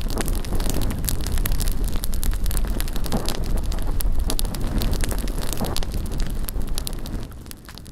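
Bonfire burning with dense crackling and snapping over a steady rush of flame, with wind rumbling on the microphone. The sound fades near the end.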